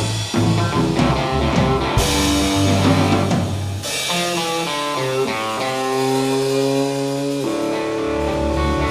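Live rock band playing an instrumental passage: electric guitar over drums, moving from busier playing into several long held notes partway through.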